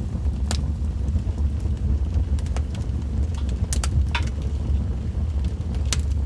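Wood fire burning in a fireplace: a steady low rumble with scattered sharp crackles and pops, about one every second.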